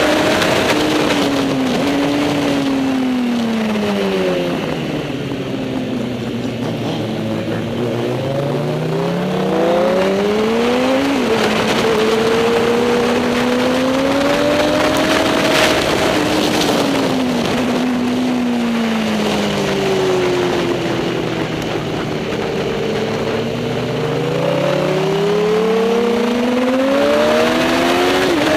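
Racing superbike engine running hard: its note falls slowly as it slows, then climbs as it accelerates, with a sudden drop in pitch at each upshift, twice.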